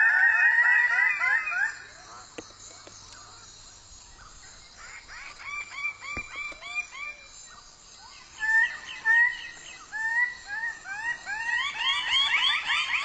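Several male Raggiana birds of paradise giving display calls together: rapid series of short, rising notes that die down after about two seconds, then build up again from about eight seconds in and are loudest near the end.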